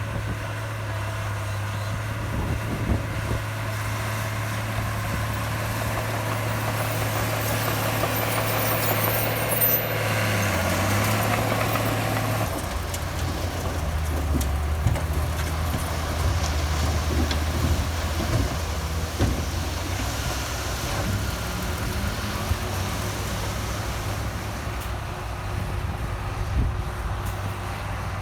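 Heavy diesel earthmoving machinery running steadily, from the bulldozer and dump truck at work. The engine note drops to a lower pitch a little under halfway through, and there is a brief high hiss before that.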